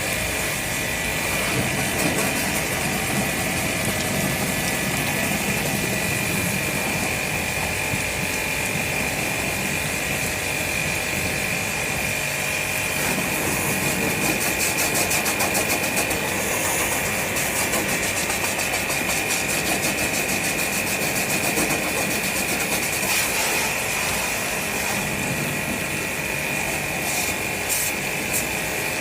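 A machine running steadily, with a constant hiss and a steady high-pitched whine.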